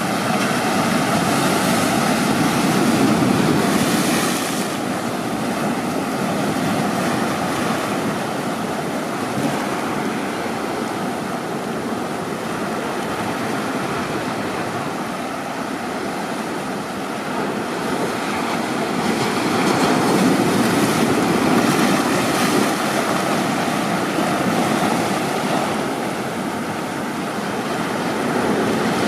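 Ocean surf: a continuous wash of breaking waves that swells louder twice, about three seconds in and again around twenty seconds in.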